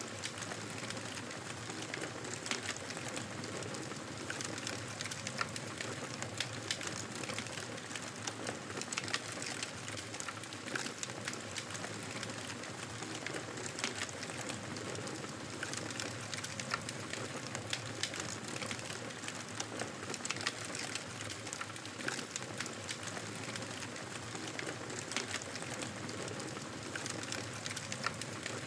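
Wood fire burning: a steady hiss of flames with frequent small, irregular crackles and pops.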